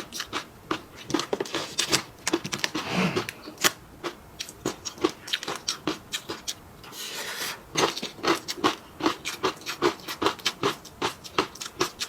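Close-miked eating sounds: wet chewing and mouth clicks, several a second, as food such as popping fish roe and chewy noodles is chewed. Two longer, noisier stretches break the clicking, about three seconds in and again about seven seconds in.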